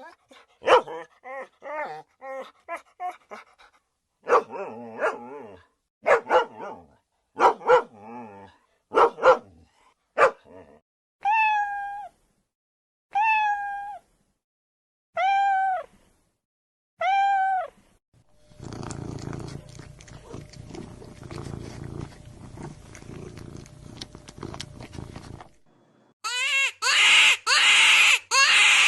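Domestic animal sounds in sequence: a dog barking in short bursts, then a cat meowing several times about two seconds apart. Next comes a steady cat purr lasting about seven seconds, and near the end loud, high squeals.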